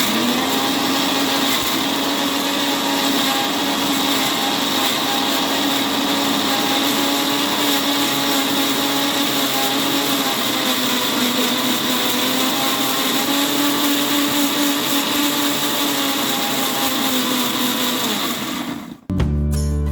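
Electric kitchen blender running steadily at speed, grinding onion or garlic into a paste, with a constant motor hum. It runs down and stops near the end.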